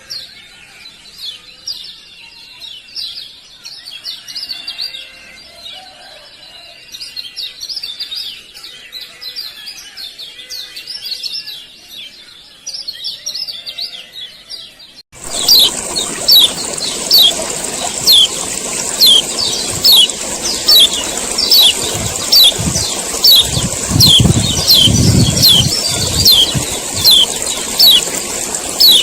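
Kecial kuning (a white-eye) chirping: softer varied chirps at first, then about halfway through an abrupt switch to louder, sharp falling 'ciak' calls repeated about once a second over a steady high hiss.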